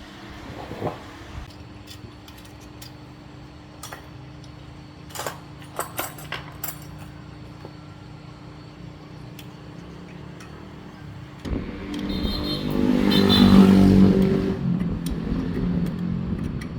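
Scattered sharp clicks and taps over a steady hum. About twelve seconds in, an engine sound swells up, peaks and fades over about four seconds, like a motor vehicle passing.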